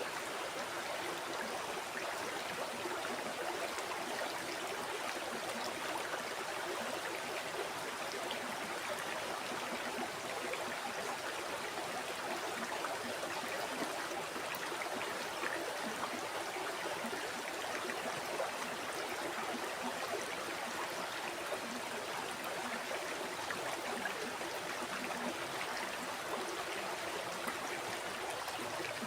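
River water flowing steadily over stones, a continuous rushing and burbling.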